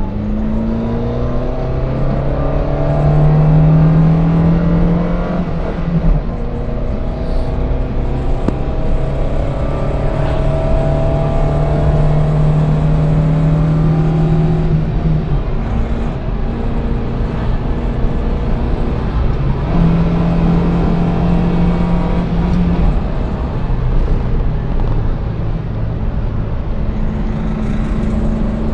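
Yugo 45's small four-cylinder engine accelerating hard under full load, its note climbing slowly through each gear and dropping back at each of several gear changes.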